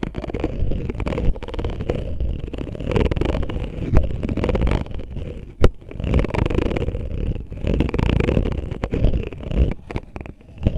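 An oil bottle scratched and rubbed right against the microphone, giving a dense, close, low rustling scrape with scattered clicks. A sharp click sounds about five and a half seconds in.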